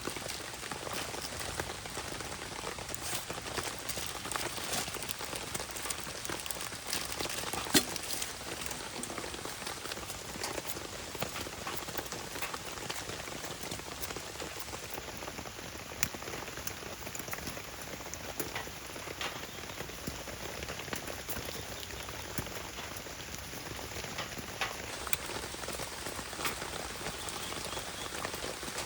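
Steady rain falling, with scattered sharp ticks of drops and a louder single snap about eight seconds in.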